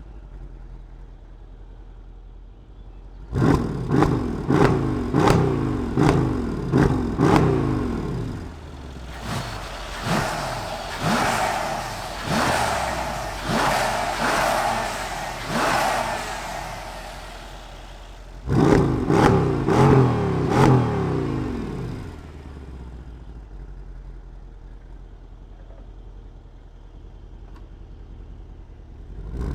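Mercedes CLS63 AMG's twin-turbo V8 idling, then blipped hard in a quick string of revs at about two a second. Longer revs follow in the middle, then another short string of blips, then it settles back to idle.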